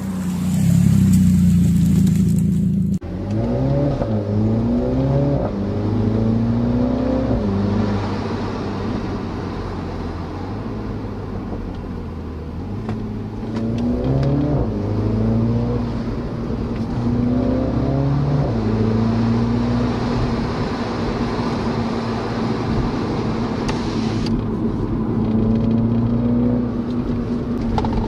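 A small hatchback's engine and exhaust as the car drives. The engine pitch climbs and drops several times as it accelerates and shifts gear. A loud rushing noise fills the first three seconds and cuts off sharply.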